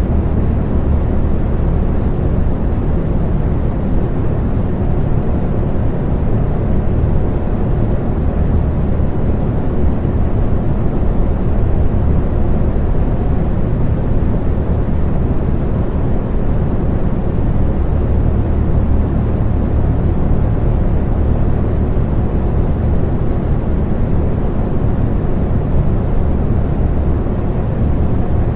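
Electric fan running steadily: a low, even whooshing rumble of air, with a faint steady hum.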